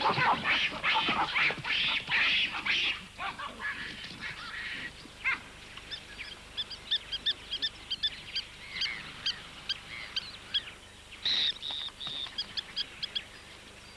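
Plovers calling in alarm: a burst of harsh, scolding calls, then a rapid run of short, high piping notes.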